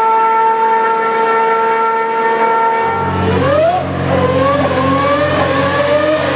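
Ferrari V12 Formula One engine, first holding a steady high note. About three seconds in it drops to a lower pitch that rises and falls as it is revved, with a deeper rumble underneath.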